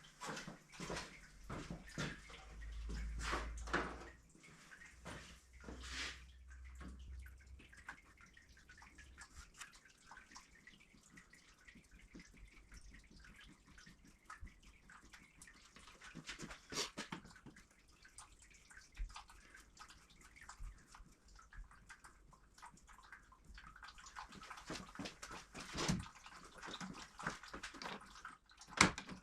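Engine coolant trickling and dripping from the radiator into a drain pan, with scattered clicks and knocks from work on the radiator. There is a low rumble in the first few seconds.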